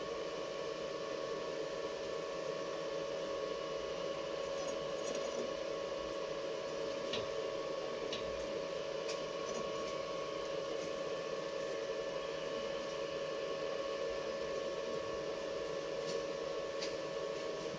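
A steady, even hum with a few faint scattered ticks and taps.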